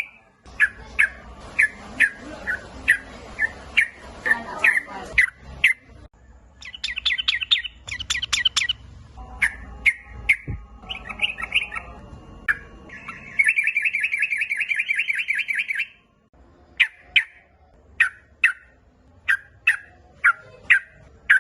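Yellow-vented bulbul (trucukan) calling: a series of short, sharp chirps about two a second, broken by a fast chattering run and, later, a long rattling trill of two to three seconds before the chirps resume.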